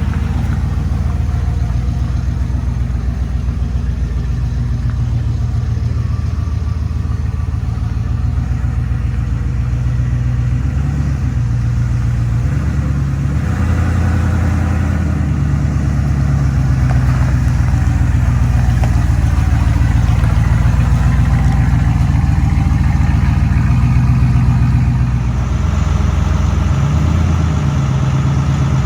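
Rollback tow truck's engine idling steadily, its speed shifting a couple of times, about a third of the way in and again near the end.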